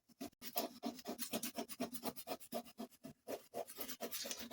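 A small knife scraping dirt from a dusty old recorded cassette tape, in quick repeated rasping strokes, about five a second.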